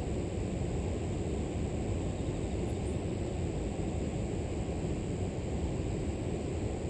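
River water rushing steadily, with a constant high-pitched drone of grass insects over it and two faint, tiny chirps about three seconds in.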